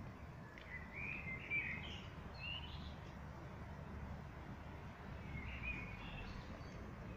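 Small birds chirping in two short spells, one in the first few seconds and another later, over a steady low outdoor rumble.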